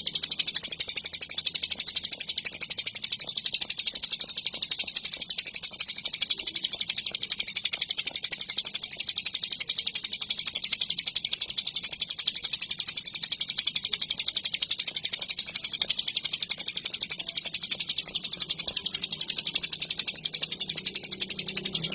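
Ciblek gunung songbird singing a continuous high, rapid trill of fast repeated notes, without a break.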